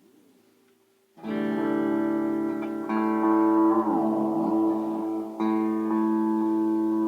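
Electric guitar chords played through an analog delay pedal set for long repeats. A faint tail of repeats wavers in pitch at first, then three strummed chords ring out about a second, three seconds and five and a half seconds in. The echoes swoop up and down in pitch between the second and third chords.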